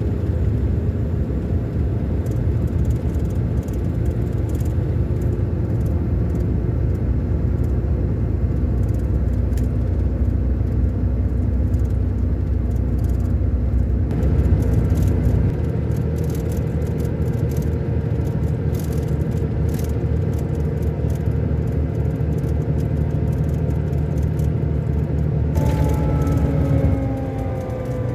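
Scania K-400 Euro 5 coach engine, a straight-six diesel, running steadily under way with light rattling clicks. About halfway through its note changes, and near the end it shifts suddenly and its pitch falls steadily as the revs drop.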